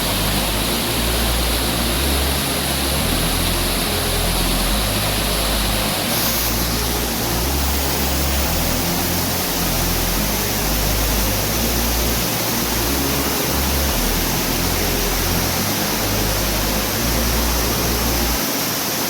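Waterfall rushing: a steady, dense roar of falling water that holds level throughout.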